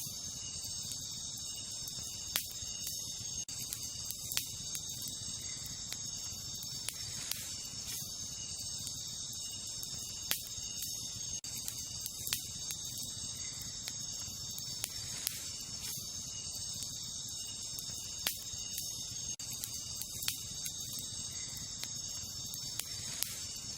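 Wood campfire crackling, with irregular sharp pops every second or two, over a steady high chorus of night insects such as crickets.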